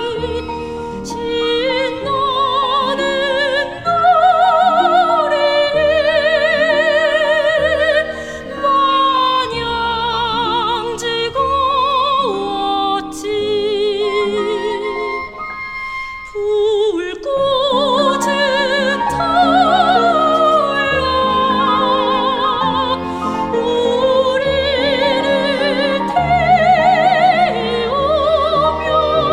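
Soprano singing a Korean art song (gagok) with heavy operatic vibrato over instrumental trio accompaniment; the voice breaks off briefly about halfway, then resumes.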